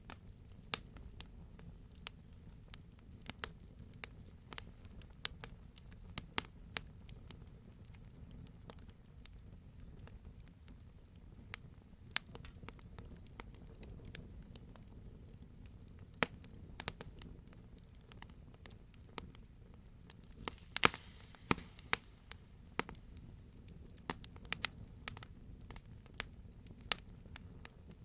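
Wood fire crackling: irregular sharp pops and snaps over a faint low rumble, with a quick flurry of pops about two-thirds of the way through.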